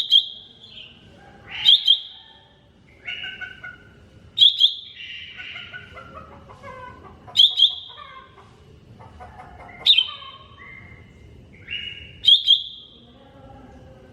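Cucak ijo mini (a small green leafbird) singing: a loud, sharp high note about every two to three seconds, with varied warbling phrases between.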